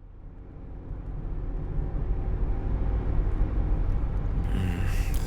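Car-interior ambience fading in: a low, steady engine and road rumble of a car in motion, heard from inside the cabin.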